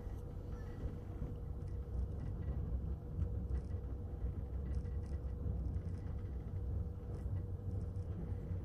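Electric passenger train running, heard from inside the carriage: a steady low rumble with a constant hum and a few faint light clicks.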